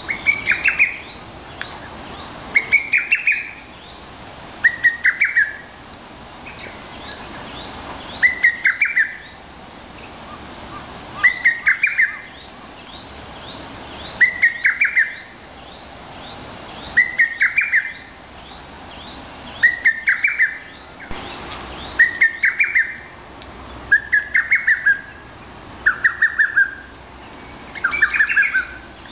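Lesser cuckoo (hototogisu) singing: a short, fast phrase of several sharp whistled notes, repeated about every two to three seconds.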